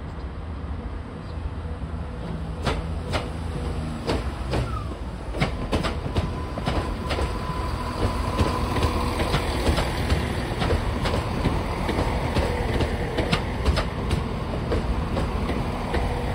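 CrossCountry Class 170 Turbostar diesel multiple unit running along the platform close by: a low diesel rumble with irregular clicks and clunks of the wheels over rail joints, and a steady high whine from about six seconds in.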